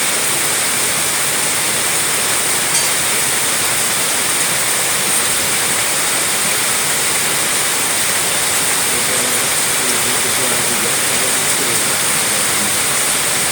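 Steady heavy rain falling: an even, unbroken hiss.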